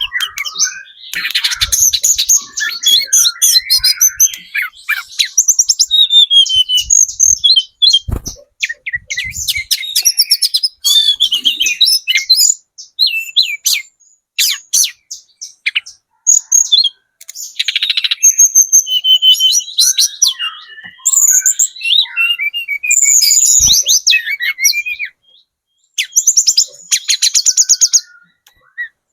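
Spotted mountain tledekan (tledekan gunung trotol) singing a long, loud run of rapid high chirps, sharp trills and short whistled phrases, broken by brief pauses; a lure song meant to draw an answer from other birds.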